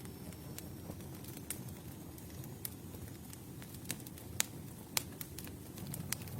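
Campfire burning: a low steady rumble of the flames with scattered sharp crackles and pops from the burning wood, the loudest pops about four and five seconds in.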